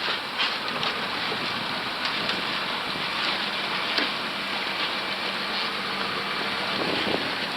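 A boat's motor running steadily under a wash of wind and water noise, with a low, even hum.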